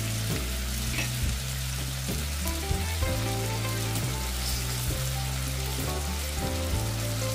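Food sizzling in a hot frying pan, with a few light clicks of a utensil against the pan, over background music.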